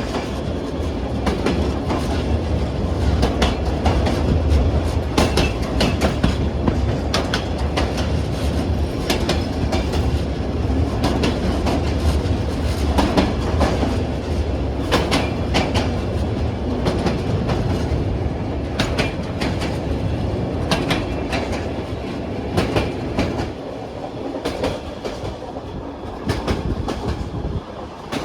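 Passenger train wheels running over the rails: a steady low rumble with irregular clicks and clacks at the rail joints, a little quieter in the last few seconds.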